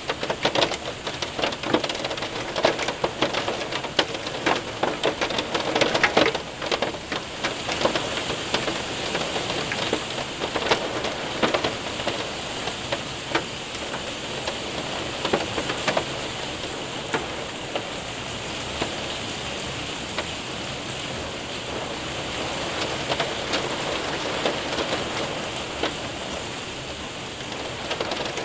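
Hail and rain hitting a window and roof: a dense patter with many sharp ticks of hailstones, heaviest over the first six or seven seconds, then easing into steadier rain with fewer, scattered ticks.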